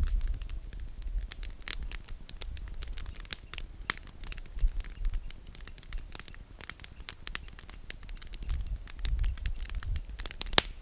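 Campfire of burning firewood crackling, with irregular small pops and a sharper, louder snap near the end, over a low rumble that comes and goes.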